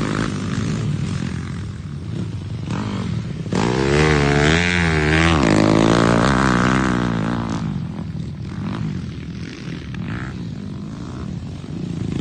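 Dirt bike engines revving on a motocross track, the pitch rising and falling. The loudest pass comes about four seconds in and fades after about seven seconds.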